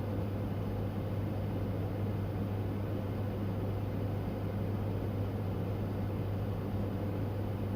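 Car engine idling: a steady low hum over a constant hiss, with no change in level.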